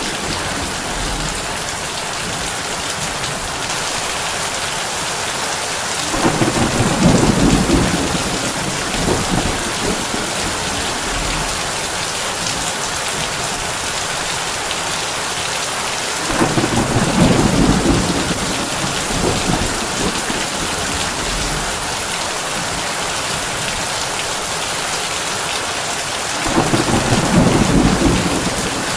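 Heavy rain on a tin roof, a steady hiss, with three low rolls of thunder about ten seconds apart, each lasting a few seconds.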